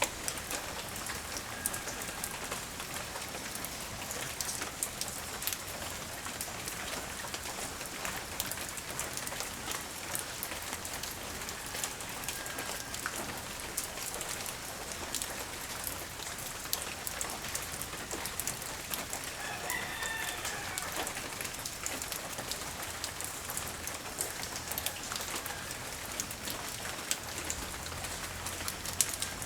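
Steady light rain falling, with many individual drops clicking sharply on a nearby surface. A rooster crows once, about two-thirds of the way in.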